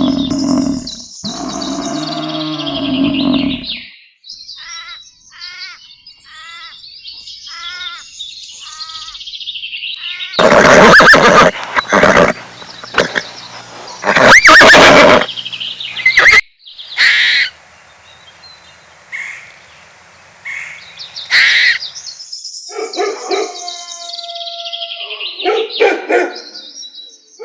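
A series of different animal calls one after another, including a run of quick repeated bird chirps and several loud, harsh calls.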